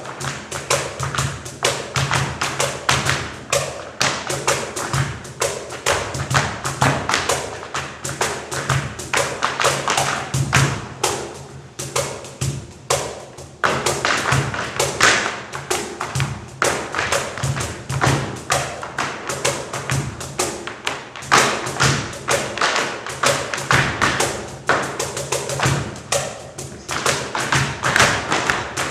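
Tap dancing: metal-plated tap shoes striking the floor in fast, dense rhythmic patterns, over music with a steady low beat.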